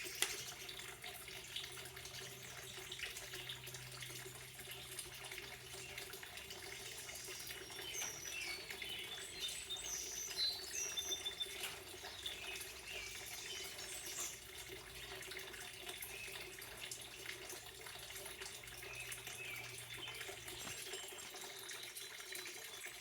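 Steady running water, with birds chirping now and then over it, most of the chirps near the middle.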